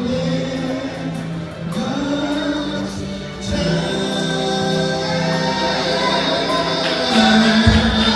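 Gospel music: a choir singing long held chords over the accompaniment, with a few low drum thumps near the end.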